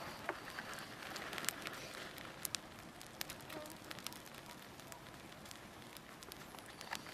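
Campfire burning, with a steady hiss of flame and scattered sharp crackles and pops from the burning wood, more frequent in the first couple of seconds.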